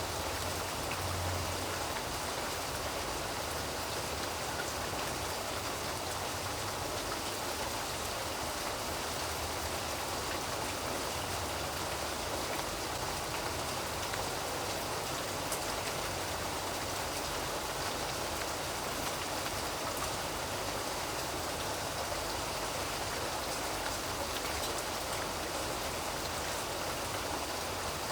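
Steady rain falling, an even hiss of many drops with faint scattered drip ticks.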